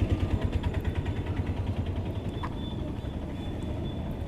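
Yezdi Adventure's single-cylinder engine running with a fast, even pulsing that is strongest in the first two seconds, then settles to a steadier drone.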